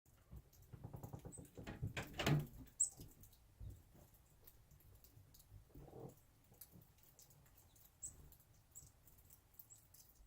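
Small birds giving short, high chip notes several times, with a burst of rustling about two seconds in.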